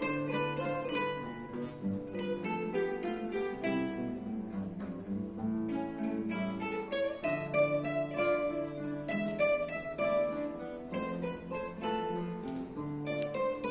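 Ensemble of acoustic guitars playing a dance piece together, in quick runs of plucked notes over a lower bass line.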